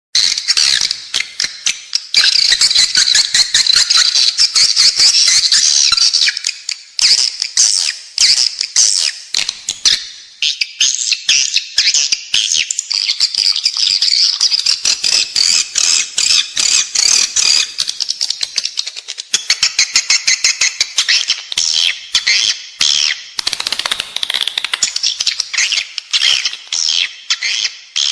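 Edible-nest swiftlet lure call, the kind played inside a swiftlet house to draw the birds in to nest: dense, continuous high twittering chirps mixed with rapid clicks, starting abruptly out of silence.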